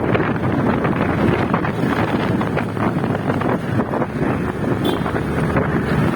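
Wind rushing and buffeting over the microphone on a moving motorcycle, a loud, steady, fluttering rush.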